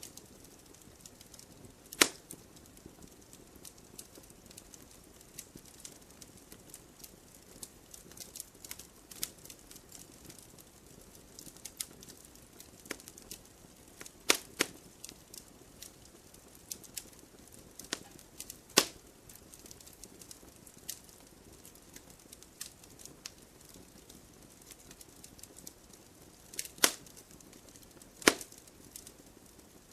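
Wood fire burning in a fireplace, with a steady soft hiss and constant small crackles, broken by a handful of louder sharp pops.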